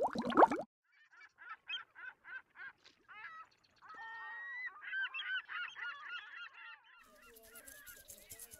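Bubbling water ends about half a second in; then a run of short bird calls, about three a second, builds into a chorus of many overlapping calls from a flock. A hiss comes in near the end.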